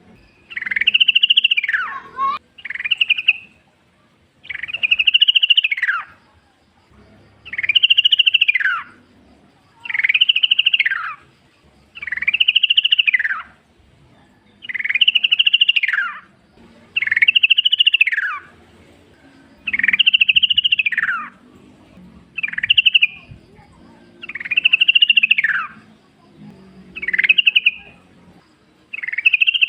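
Yellow-vented bulbul (trucukan) singing: a string of short, bubbly phrases that rise and fall, repeated about every two seconds, some phrases cut short.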